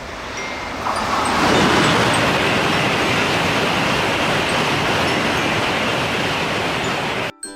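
Rushing noise of a train passing a level crossing, swelling about a second in, holding steady, then cutting off abruptly near the end.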